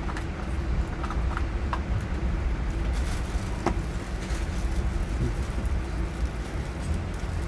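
Steady low rumble of a train running, with a few light clicks in the first few seconds.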